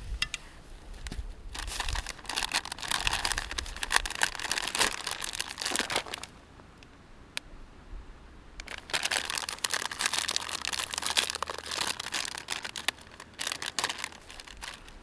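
Plastic bag or packaging crinkling as it is handled and rummaged through, in two bouts with a quieter pause of a few seconds between them.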